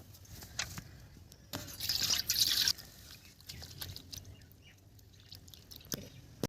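Water dripping and splashing in small taps, with a louder rush of water lasting about a second, about two seconds in.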